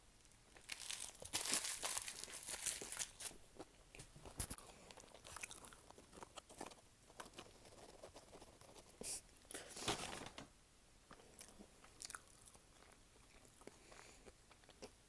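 Close-up chewing and crunching of fast food, with crackly bursts of crunching about a second in and again around the ten-second mark, and small wet mouth clicks in between.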